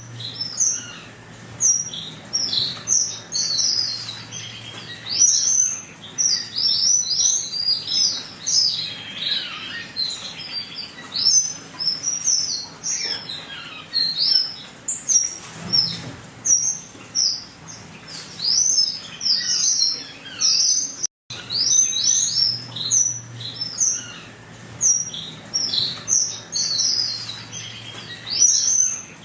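A flock of Java sparrows (Java finches) chirping: a dense, continuous run of short high chirps, cut off for an instant about two-thirds of the way through.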